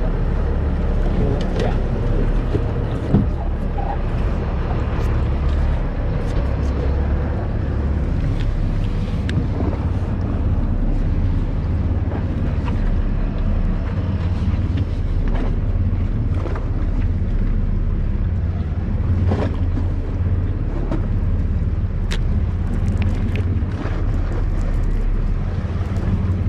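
Steady low drone of a sportfishing boat's engine, with wind noise on the microphone and a few faint clicks.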